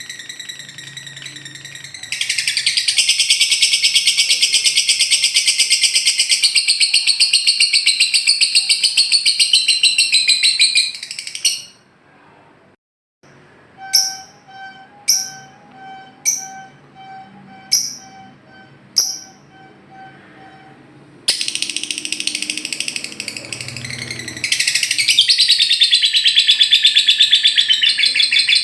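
Lovebird 'ngekek': long, very fast, high trilling chatter, one long run that stops near the middle and a second that starts after it. Between the two runs come six short, sharp chirps about a second apart over a steady whistle-like tone.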